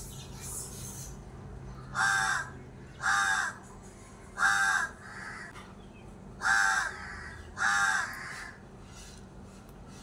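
A bird calling five times, each call about half a second long: three calls about a second apart, a pause, then two more.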